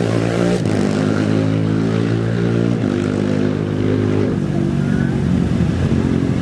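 Off-road race vehicle engines running at steady low revs, the pitch stepping up or down a few times with the throttle.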